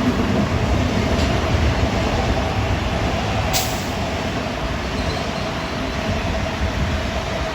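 Metro-North M7A electric multiple-unit commuter train running past at close range: a steady heavy rumble of wheels on rail with a steady hum over it, and a brief hiss about three and a half seconds in.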